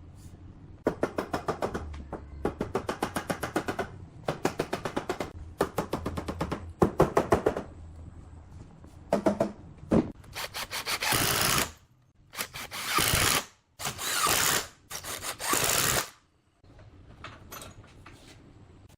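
Woodworking tool noise: several runs of rapid, evenly spaced strokes, then about five bursts of rushing noise, each a second or so long, that stop about three seconds before the end.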